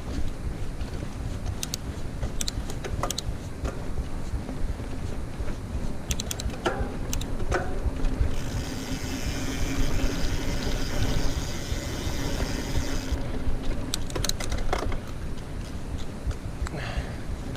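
Mountain bike riding over a dirt trail: a steady rumble of wind on the microphone and tyres on the ground, with scattered clicks and knocks from the bike rattling over bumps, and a louder hiss for a few seconds in the middle.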